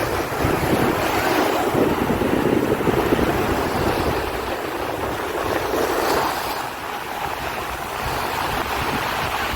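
Caspian Sea waves washing ashore, a continuous surging wash that eases slightly in the second half, with wind buffeting the microphone.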